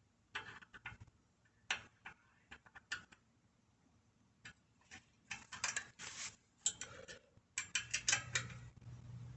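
Ratchet wrench clicking in short bursts as it turns the 10 mm bolt that releases the coaster brake on the bicycle's rear wheel, with the clatter of the socket and metal parts.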